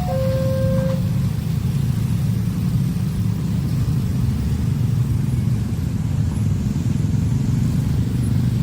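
Level-crossing warning alarm alternating between two tones stops about a second in, leaving the steady low rumble of a train passing the crossing.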